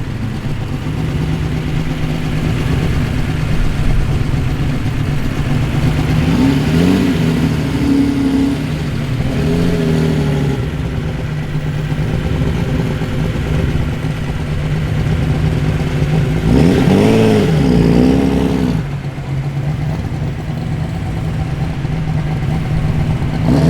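V8 muscle car engine idling with a steady lumpy burble, blipped several times with short revs that rise and fall back to idle; the strongest pair of revs comes about 17 seconds in.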